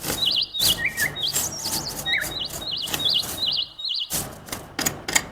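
A small bird chirping over and over in short, wavering high calls, mixed with several sharp clicks.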